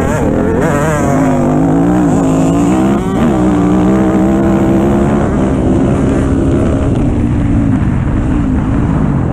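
Dirt bike engine running under throttle, its pitch rising and falling.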